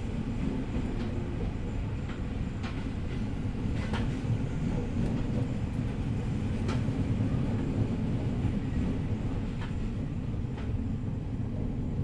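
Onboard running sound of an E501 series electric train running slowly under a strong-wind speed restriction. There is a steady low rumble of wheels on rail, with sharp single clicks every second or few seconds as the wheels cross rail joints.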